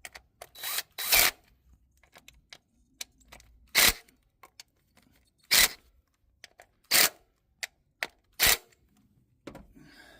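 Cordless drill-driver on its lowest setting, pulsed in about six short bursts as it runs the ignition-coil screws in just until they seat, not tightened hard. Small clicks fall between the bursts.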